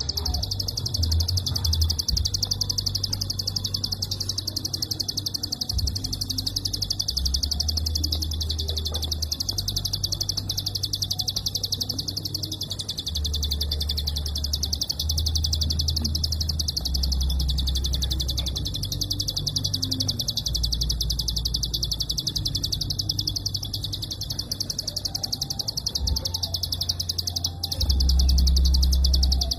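A prinia (prenjak) singing its 'klik' song: a dense, high-pitched stream of rapid clicks, long and closely spaced with almost no pauses. A low hum runs underneath.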